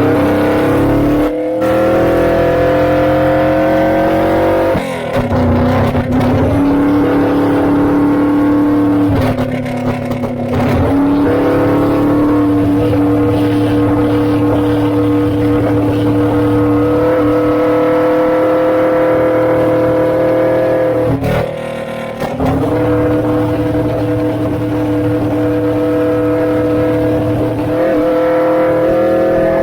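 Suzuki GS400 air-cooled parallel-twin motorcycle running through a Pretty Racing 'Kiwami' aftermarket exhaust under way. Its revs rise slowly in several long pulls, with short breaks and drops in pitch between them.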